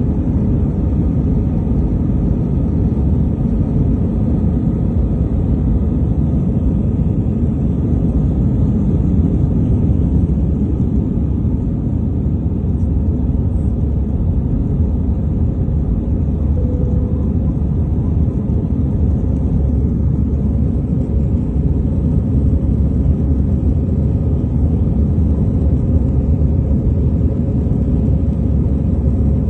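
Steady low rumble of an airliner heard from inside the passenger cabin, even and unchanging throughout.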